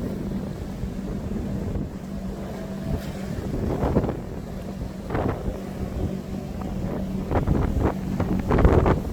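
Strong wind buffeting the microphone in gusts, the loudest near the end, over a steady low hum.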